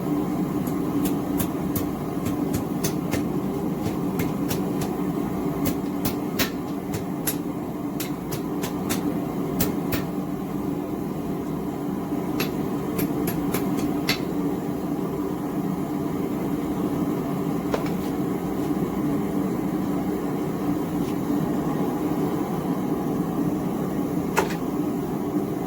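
Small gas forge burner running with a steady roar, while steel clinks and taps lightly as a hot bar is worked into two right-angle bends. The taps come in scattered runs, thickest in the first half, some of them ringing briefly.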